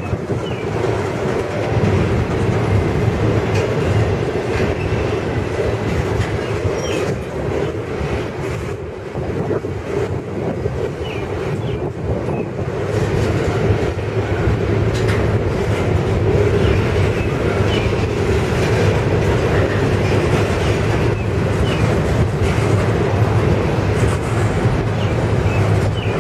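Double-stack intermodal well cars rolling past on steel wheels, a steady, loud rumble of wheels on rail with short, faint squeals now and then.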